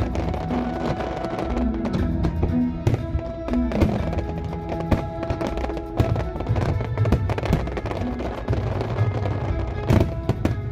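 Fireworks bursting in sharp bangs over loud music, with the strongest bangs about four seconds in and again near the end.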